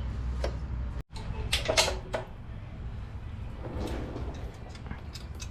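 A few knocks and clunks of hands working the tiller's belt and pulley parts, over a low steady rumble. The sound cuts out completely for an instant about a second in.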